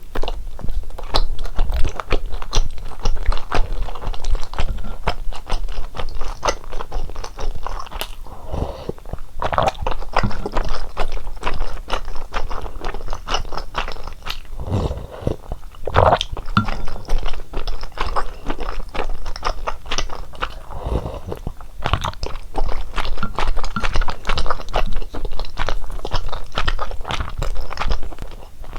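Close-miked chewing of fish cakes from a fish cake soup, with a dense run of wet mouth clicks, smacks and bites.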